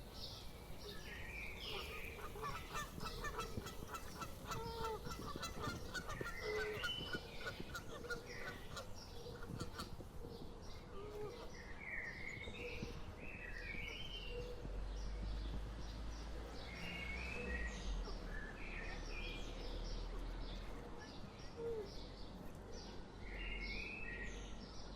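Several wild birds calling at once: many short, repeated high calls, with a fast run of notes in the first ten seconds and lower single notes scattered through.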